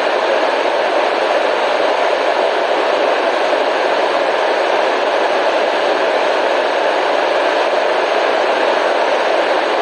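Steady, unbroken white noise for relaxation: an even hiss with no changes, fullest in the middle range, with little deep rumble or sharp treble.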